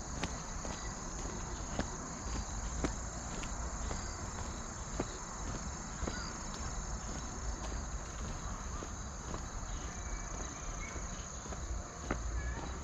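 Insects trilling in one steady, unbroken high tone, with a walker's footsteps clicking faintly and regularly.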